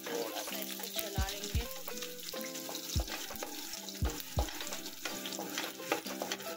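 Chopped ginger and garlic sizzling in hot oil in a wok, stirred with a wooden spatula. Background music with a low bass beat plays under the sizzle.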